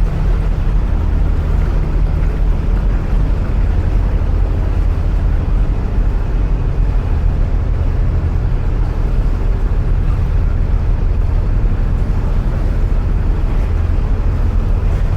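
A narrowboat's diesel engine running steadily at cruising speed inside a long canal tunnel, a constant low drone with no change.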